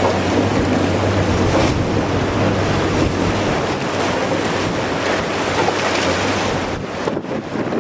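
Strong wind rushing across the microphone, mixed with ocean surf, as a dense steady roar that dips briefly near the end.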